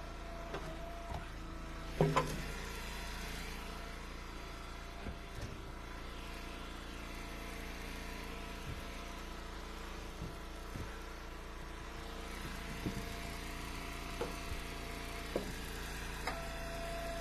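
Small gas engine of a hydraulic log splitter running steadily, with scattered knocks of split firewood, the loudest a double knock about two seconds in.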